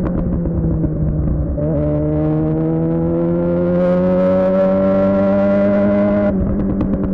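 Suzuki GSX-R600's inline-four through a Yoshimura R11 exhaust, running steadily, then pulling under throttle with its pitch climbing slowly for a few seconds. The note drops away abruptly about six seconds in as the throttle is rolled off.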